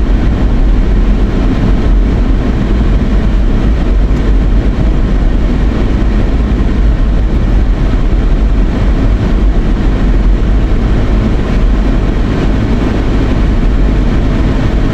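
Steady, loud rumble of tyre and engine noise inside a moving car's cabin, with the air-conditioning fan blowing.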